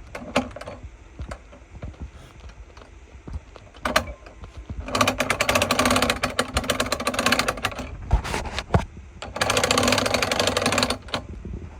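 Lifting mechanism being run to raise HVAC equipment: rapid mechanical clattering with a steady hum under it, in two runs, the first about two and a half seconds long starting near the middle, the second shorter near the end, with a few single knocks before.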